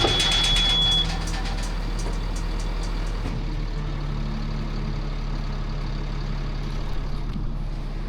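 Truck engine running steadily. At the start a single high beep lasts about a second, with a quick run of clicks over the first three seconds. The engine note shifts about four seconds in.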